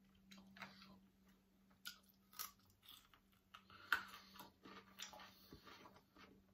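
A person chewing food close to the microphone: soft crunches, wet mouth clicks and smacks, with the sharpest click about four seconds in.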